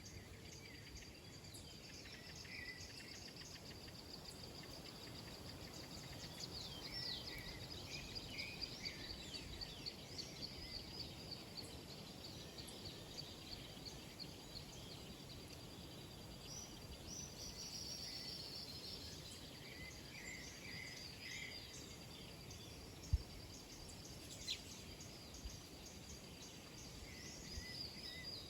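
Wild birds chirping and trilling on and off over a steady high-pitched insect drone, with one sharp tap about three-quarters of the way through.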